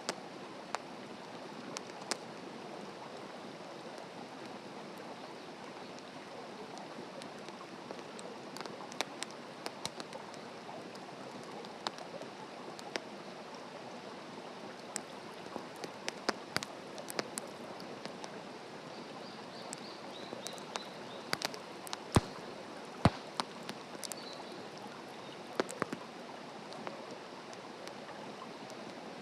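Wood fire burning in a fire stand: a steady hiss with scattered sharp crackles and pops, two of them loudest a little after the middle.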